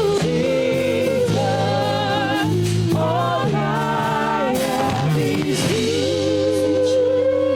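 Gospel worship music: a singer with vibrato sings wordless or long-held lines over sustained keyboard or pad chords.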